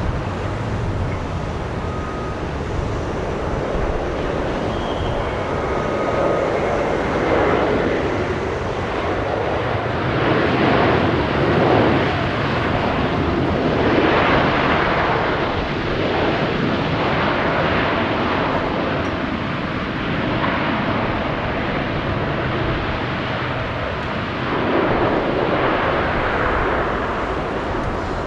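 Jet airliner engines producing a sustained loud noise that surges and eases unevenly.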